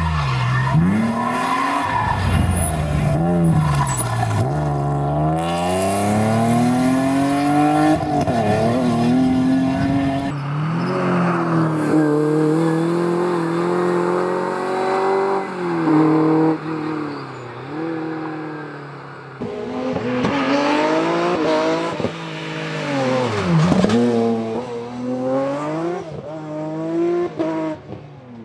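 Rally car engines revving hard, climbing in pitch through the gears and dropping sharply at each shift or lift. The sound changes abruptly about 10 and 19 seconds in as a different car takes over.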